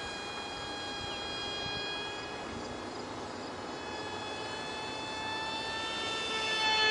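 Ultra micro RC foam jet's 8 mm direct-drive motor and propeller whining in flight. The high, steady whine fades through the middle and grows louder again near the end as the plane passes.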